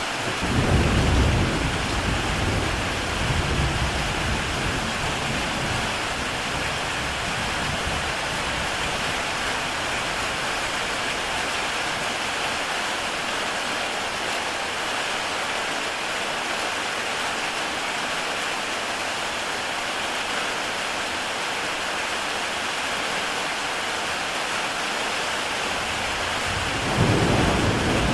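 Heavy rain falling steadily on a tile roof, with low rumbles of thunder in the first few seconds and again near the end.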